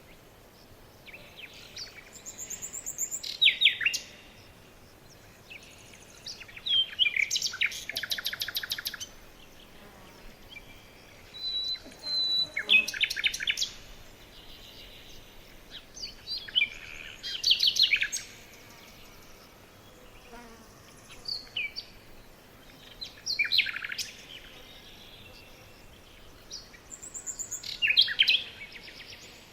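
A songbird sings a short, fast trilled phrase with falling notes and repeats it about every four to five seconds, with quiet gaps between the phrases.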